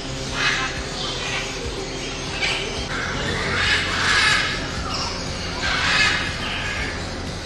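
Birds giving harsh, raspy squawks, a call every second or so, some of them drawn out.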